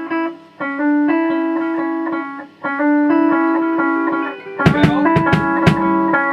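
Electric guitar played through an amp, strumming sustained chords with a couple of short breaks. About three-quarters of the way in, a few sharp drum hits come in.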